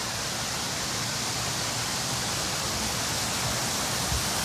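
Waterfall splashing down into the river: a steady rush of falling water.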